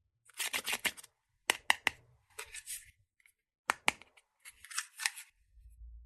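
Small plastic toy pieces and packaging being handled: short bursts of crinkly rustling broken by sharp plastic clicks, two or three at a time.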